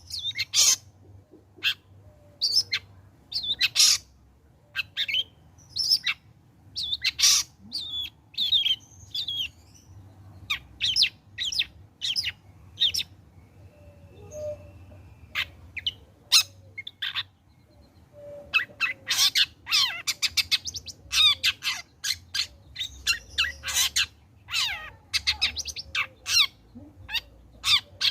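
Young long-tailed shrike (cendet), just past its juvenile trotol stage, singing in a rapid string of short, harsh, sharp notes, with a pause of a few seconds near the middle.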